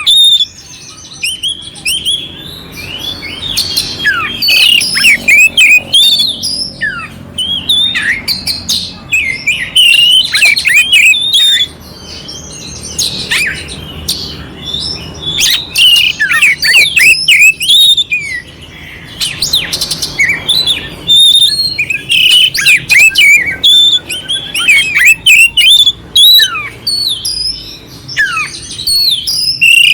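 Oriental magpie-robin (kacer) singing a fast, varied song of sweeping whistles and warbles mixed with harsh, scratchy fill notes, in bursts broken by brief pauses.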